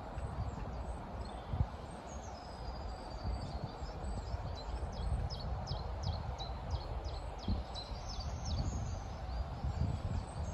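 Small birds chirping in thin, high notes: a falling whistle about two seconds in, then a run of quick falling chirps, two or three a second, through the middle. Under them sit a steady outdoor hum and a low rumble.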